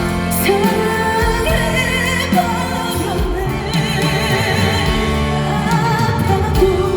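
Live trot ballad with band accompaniment: a woman's voice carries a melody of long notes with wide vibrato.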